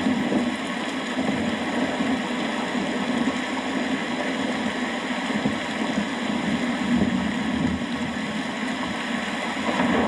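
Steady rain, a dense even rush of drops with a low, rumbling undertone and no distinct thunderclap.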